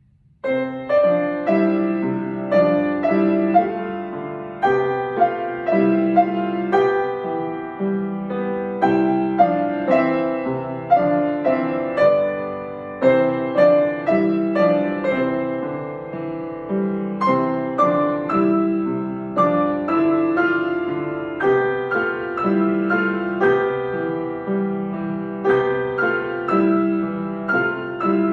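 Piano played, a simple piece of melody over lower chords in a steady rhythm, starting about half a second in after a brief silence.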